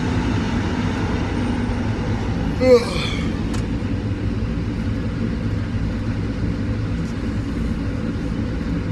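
Steady engine and road rumble inside a tractor-trailer cab while driving. A short, loud, pitched squeak-like sound cuts in about three seconds in.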